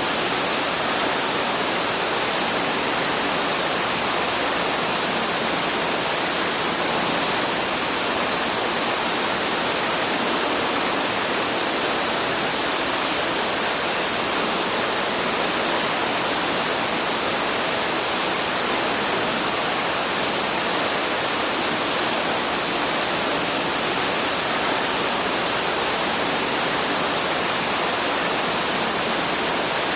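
Waterfall rushing in a steady, even hiss, with no let-up or change.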